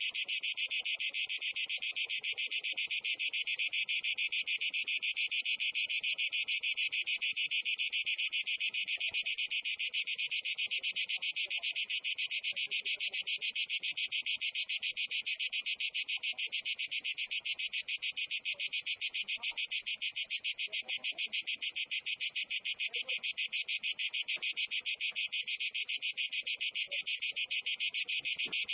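Cicadas calling: a continuous high-pitched buzz that pulses rapidly and evenly.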